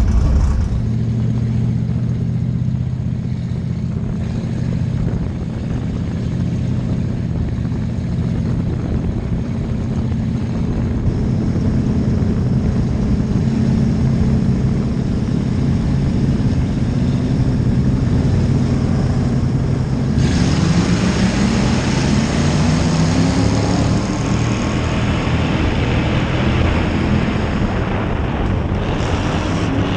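Ford Crown Victoria race car's V8 engine running at a steady low pace, then from about twenty seconds in its note climbs as the car picks up speed, with a rushing noise added over it.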